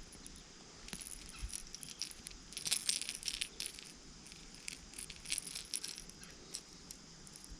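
Light metallic clicking and rattling of a popper lure's hooks being worked loose from a hooked bass's mouth, in a few short clusters.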